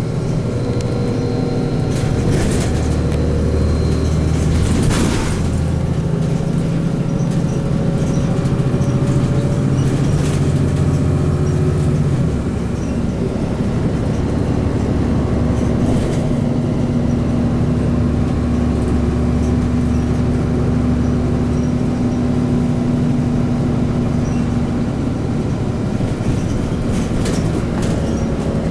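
Cummins ISC diesel engine and Allison B400R automatic transmission of a 2002 Blue Bird CS transit bus running under way, with a steady drone whose pitch changes about twelve seconds in. Short rattles and clatters come through now and then.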